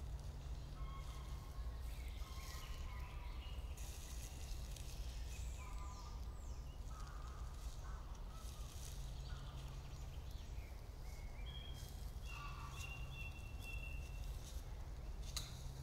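Faint, scattered bird calls over a low steady rumble in a forest, with a sharp click shortly before the end.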